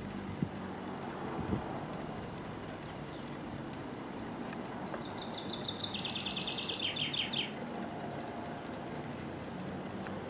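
A bird sings a rapid trill of evenly repeated notes about five seconds in, stepping down in pitch partway and lasting about two and a half seconds, over a steady outdoor background hiss with a couple of soft knocks near the start.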